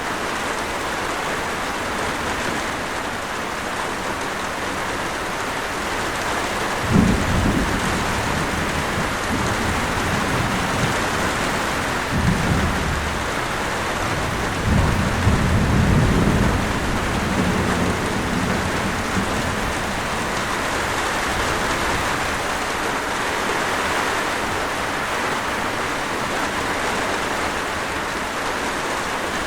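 Steady rain falling, with thunder rumbling three times. The first roll starts sharply about a quarter of the way in, a shorter one follows, and the longest roll comes just past the middle.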